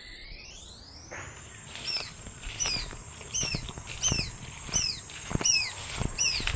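Repeated high, downward-slurred peeps, about one every 0.7 s, from a quail chick caught by a shikra hawk, with soft thumps and rustling beneath them. Before the peeps start, a steady hum glides upward in pitch over the first second and a half.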